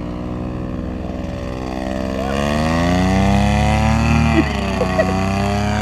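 Paramotor engine and propeller running, revving up about two seconds in: the pitch rises and it gets louder, then holds at a higher throttle.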